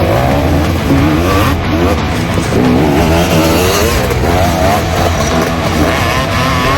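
KTM 250 SX two-stroke dirt bike engine being ridden hard, its pitch rising and falling over and over as the rider works the throttle and gears.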